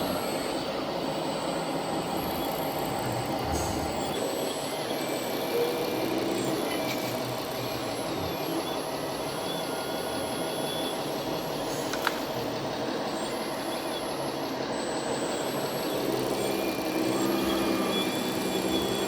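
Steady mechanical running noise with a constant hum, and a single sharp click about twelve seconds in.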